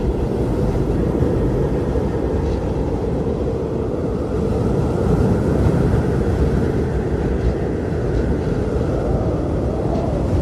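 Blizzard wind blowing steadily, a low rushing noise, with a faint higher howl that swells and fades over the second half.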